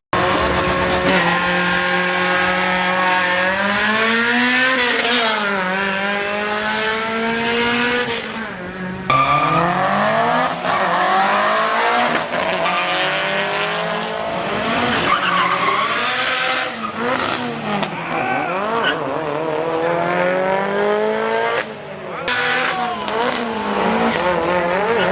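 Drag-racing engines revving hard, their pitch climbing and dropping again and again through the runs. The sound breaks off abruptly twice.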